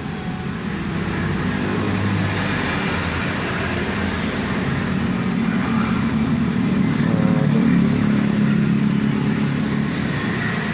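A motor vehicle engine running at a steady note, its pitch shifting and its level rising a little past the middle.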